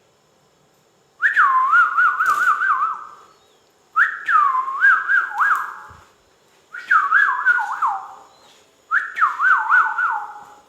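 Ringneck parrot whistling the same phrase four times. Each phrase is a falling note followed by a quick run of swooping up-and-down notes, about two seconds long.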